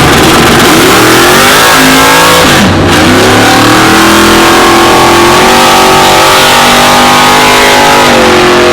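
Engine under hard acceleration, very loud, its pitch climbing, dropping sharply at a gear change about three seconds in, then climbing again and holding high.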